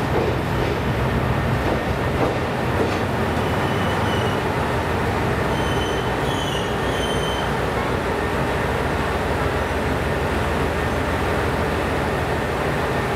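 KiHa 189-series diesel railcar train pulling in along a station platform and slowing, its diesel engines running under a steady rumble of wheels on the rails. A few short high squeals come from the wheels and brakes in the middle.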